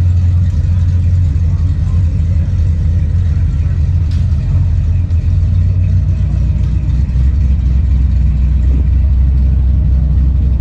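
A car driving, with a steady low rumble of road and engine noise. The drone settles slightly lower in pitch about seven seconds in.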